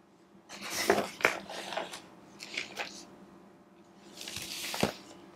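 Handling noises: short rustles with light clicks, in three bursts about a second and a half apart.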